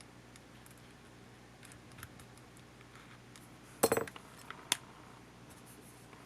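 Small metal tools and parts clinking and tapping on a work surface: scattered light ticks, a quick cluster of sharp clinks about four seconds in, and one more sharp click shortly after.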